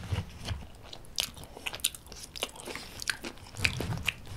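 A person chewing food close to the microphone, with irregular wet mouth clicks and smacks, and chopsticks picking at a plastic lunchbox tray.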